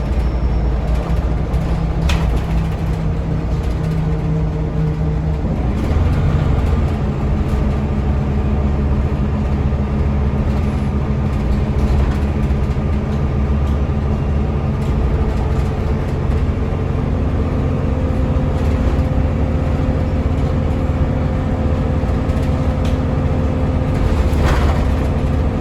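Scania DC9 diesel engine of a Scania L94UB city bus running under way. The engine note changes about six seconds in and then holds steady.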